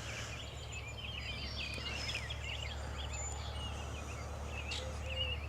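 Quiet outdoor ambience: small birds chirping faintly over a steady low hum.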